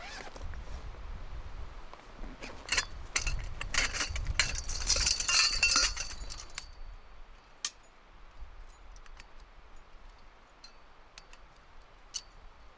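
Metal objects clinking and scraping: a cluster of sharp clinks with a bright rasp about three to six seconds in, then a few scattered single clicks, over a low rumble in the first half.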